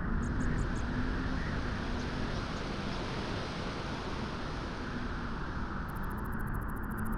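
Beach wind blowing as a steady, even rush with a low rumble. Faint high ticking comes in near the end.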